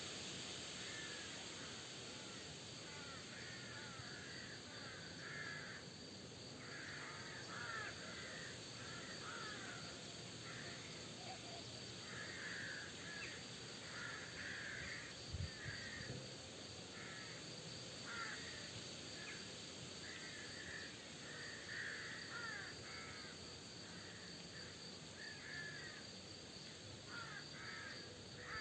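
Birds calling repeatedly, many short harsh calls over a steady background hiss. A brief low thump about halfway through.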